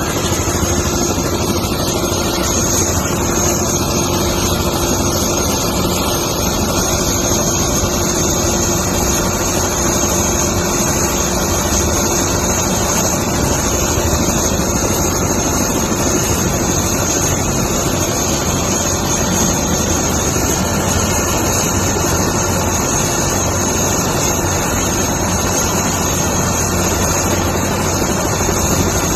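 Helicopter running close by, a steady even roar with a constant high turbine whine over it.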